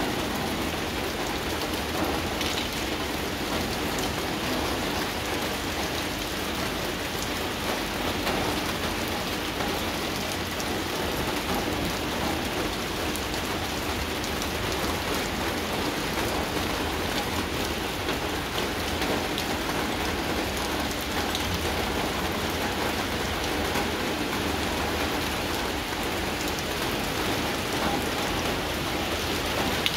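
Steady rain falling on banana leaves and wet ground: an even hiss at a constant level, with scattered individual drop hits.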